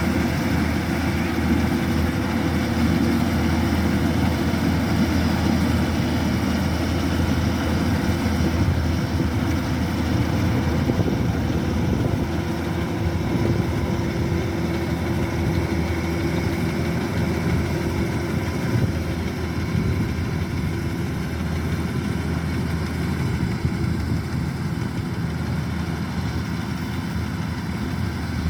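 Kubota DC-105X combine harvester running steadily while cutting rice, its diesel engine giving a constant low drone.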